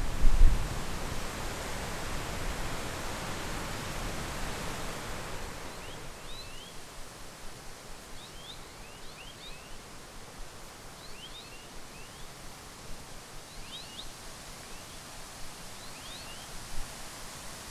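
Wind rushing through trees, with wind rumble on the microphone at the start, dying down over the first five seconds. After that a small bird chirps short, high notes in twos and threes, every second or two.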